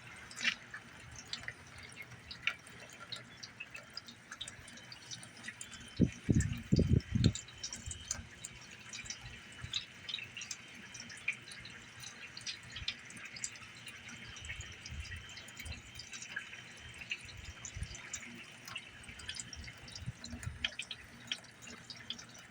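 Rainwater dripping: scattered irregular drops ticking onto hard surfaces over a steady hiss. A few loud low thumps about six seconds in.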